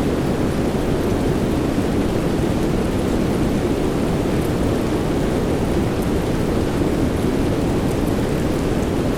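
Steady rain: a dense, even rush of noise weighted toward the low end, with only faint scattered drop ticks and no distinct thunderclap.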